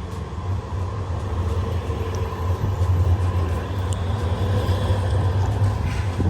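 Street traffic: the low rumble of a large vehicle passing close by, building through the middle and easing off near the end.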